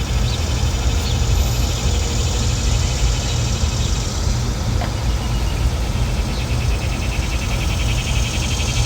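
Steady outdoor background noise: a continuous low rumble with a faint hiss above it, with no clear single event.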